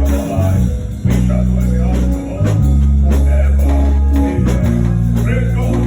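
Live band music with a strong bass line, electric guitar and drum kit playing a steady beat.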